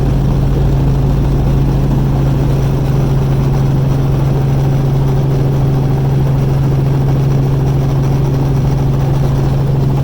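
Helicopter's engine and rotor running steadily, giving a loud, even hum.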